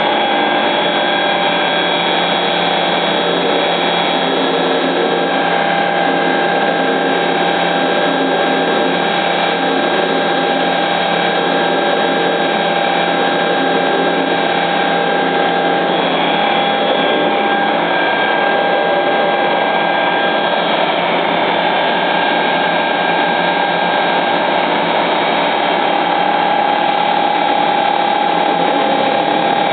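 Mura FPF22-3000 CNC milling and drilling machine running steadily: a constant machine whine made of several steady tones over dense mechanical noise.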